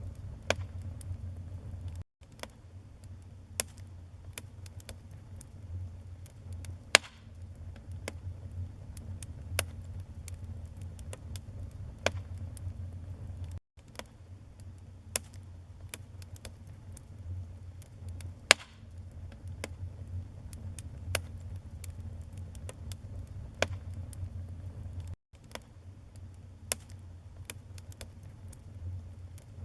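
Wood fire burning in a fireplace: a steady low rumble of flame with sharp crackles and pops of the burning logs every second or so, a few of them loud snaps. The sound cuts out for an instant three times at even spacing, where the recording loops.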